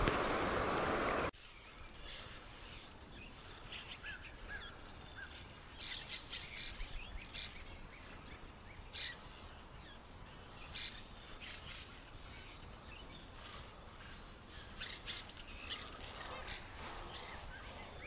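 Songbirds chirping and calling in the trees, many short scattered chirps over quiet river-bank background. It opens with a loud rubbing noise on the microphone that cuts off abruptly about a second in.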